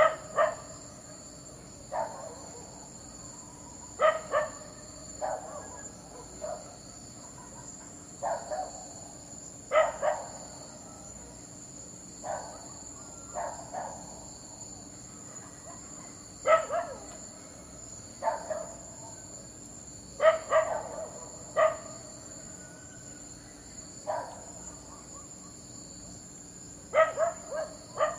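A dog barking in short sharp barks, singly or in quick pairs and threes, every one to three seconds. Behind the barks runs a steady high chirring of crickets.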